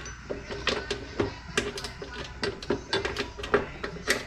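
Irregular metallic clicks and knocks of hand tools working on the wood chipper's bolts, a few each second, each with a short ring.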